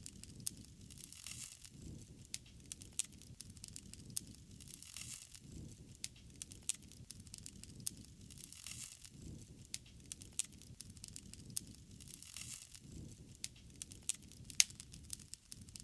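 Wood fire crackling: irregular sharp pops and snaps, a few louder than the rest, over a low, wavering hiss of burning.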